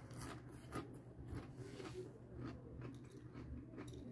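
Close-up chewing of a mouthful of oat-ring Cheerios cereal in milk: soft, irregular crunches and wet mouth sounds. The spoon scoops in the bowl near the end.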